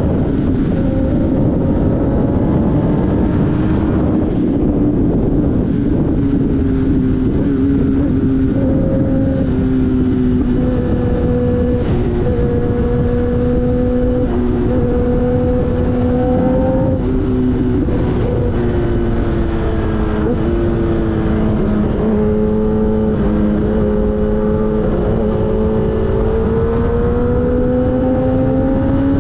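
Sportbike engine running at a steady cruise under loud wind rush, its pitch drifting slowly, dropping in a few steps past the middle and climbing again near the end.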